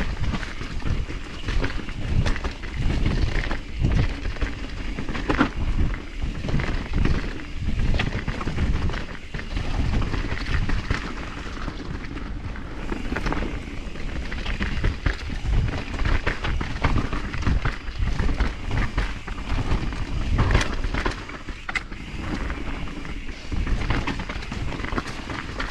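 Mountain bike riding down a rough dirt trail: tyres crunching over dirt and rock, the bike rattling with many sharp knocks over bumps, and heavy wind rumble on the microphone.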